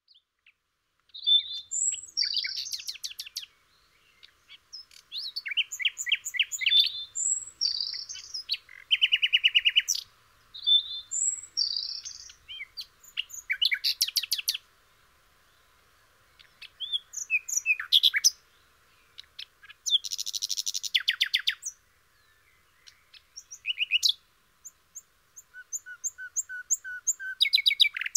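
Birdsong: short chirps, whistled notes and rapid trills in quick phrases, with a brief lull past the middle.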